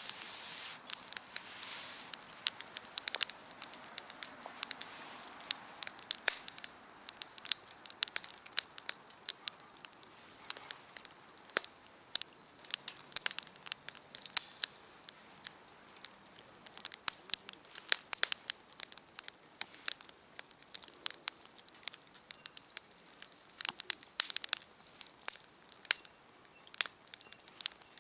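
Wood campfire crackling, with frequent sharp pops and snaps over a soft hiss of burning.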